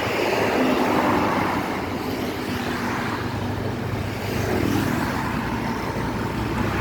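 Motorcycle engine running steadily while riding, over road and wind noise, its pitch shifting a little midway.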